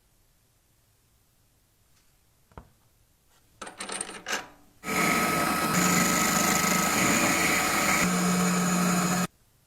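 A few light handling scrapes, then a small electric power tool runs steadily for about four and a half seconds with a constant motor whine and stops abruptly.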